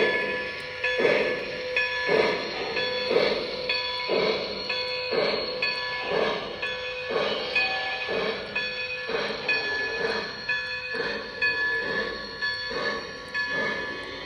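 Lionel Legacy Blue Comet O gauge steam locomotive's sound system chuffing slowly, about one chuff a second, with a steady whine underneath.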